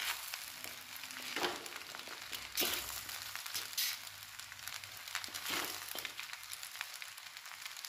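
Chicken chow mein sizzling in a wide pan while a spatula tosses it and scrapes the pan, with a few louder scraping strokes over a steady hiss.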